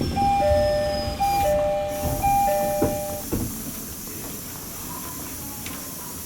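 Two-note electronic chime, a higher note then a lower one, sounding three times in about three seconds, typical of a commuter train's door chime, over the steady hiss and rumble of the train. After the chime, only the hiss and rumble continue, a little quieter.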